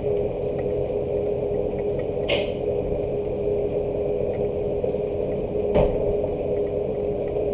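Rain with a steady low hum that carries one constant tone, and two sharp ticks, one about two seconds in and one near six seconds.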